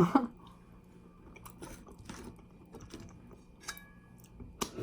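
Close-miked chewing of butter-dipped fried chicken wings, with small wet clicks and crackles. There is a brief louder sound right at the start and a sharp click near the end.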